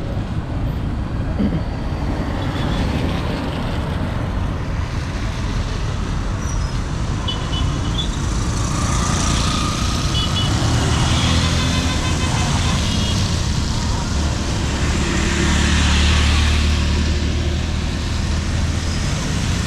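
Street traffic: steady road noise and engine rumble from passing vehicles, with one vehicle passing closer and louder about sixteen seconds in.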